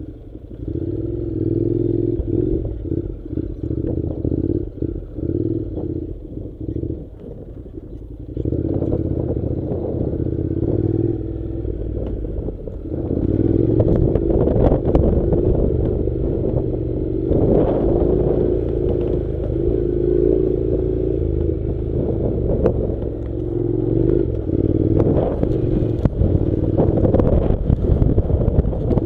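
Honda NC700's parallel-twin engine running under way off-road, with clattering knocks from the rough track. The engine picks up and runs louder from about eight seconds in.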